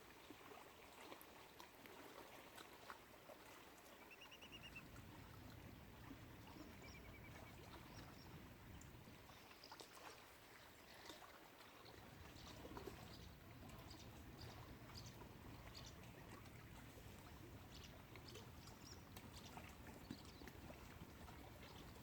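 Faint lakeshore ambience: soft lapping and trickling water with a few brief, high bird chirps. A low wind rumble on the microphone comes in about four seconds in, drops out briefly around the middle, then returns.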